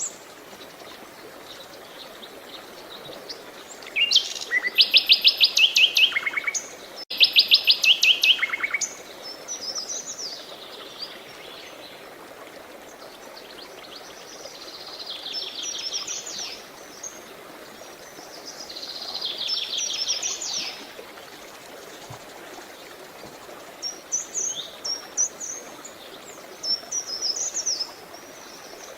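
Songbirds singing: loud, rapid trilled phrases about four and seven seconds in, then softer trills and scattered chirps, over a steady hiss.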